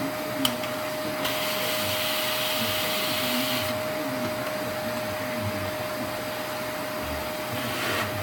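Vacuum cleaner running steadily with a constant whine, with a click about half a second in. A louder airy hiss comes in from about one to three and a half seconds.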